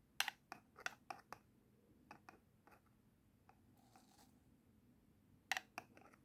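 Scattered sharp clicks and taps of tweezers working a small plant and moss into a plastic-bottle terrarium, in a cluster at the start, a few in the middle and a couple more near the end.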